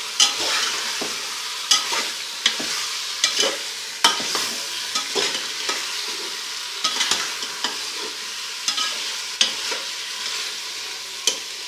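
Turnip pieces, green chillies and spice masala sizzling in oil in a pan while being stirred, with irregular clicks and scrapes of the stirring utensil against the pan. The vegetables are being fried until the oil separates from the masala.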